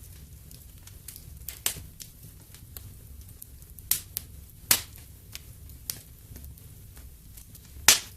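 Fireplace fire crackling: scattered small ticks and a few sharp pops over a low steady rumble, the loudest pop near the end.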